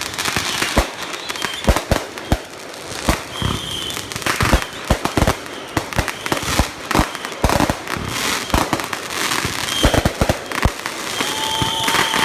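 Consumer aerial firework cakes firing: a dense, irregular string of sharp bangs over steady crackle, with a few short whistling tones near the end.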